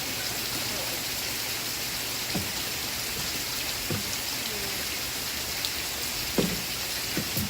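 Steady rain falling, an even hiss with a few sharper ticks standing out; the loudest comes a little over six seconds in.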